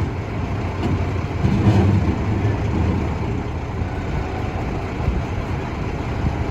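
A heavy vehicle's engine runs with a steady low rumble. It swells briefly about two seconds in, then settles back.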